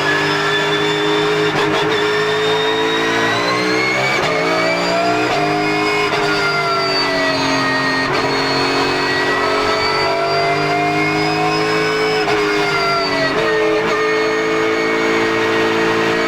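Car engine running hard. Its pitch climbs slowly and drops sharply about halfway through and again near the end, like gear changes while driving at speed.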